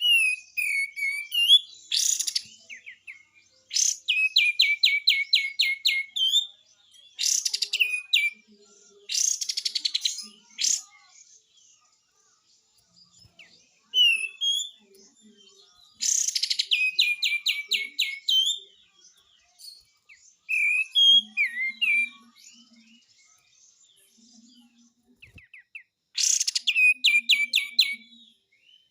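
Kapas tembak bulbul calling in repeated bouts, with harsh rasping bursts ('besetan') alternating with fast runs of descending whistled notes and short pauses between bouts.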